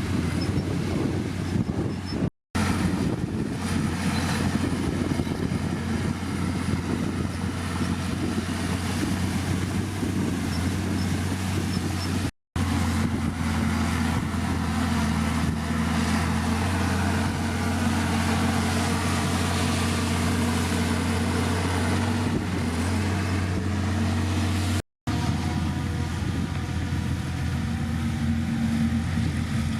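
Heavy diesel engine of a bulldozer running steadily under work, with the clatter and noise of the machine around it. The sound cuts out completely for an instant three times, about evenly spaced.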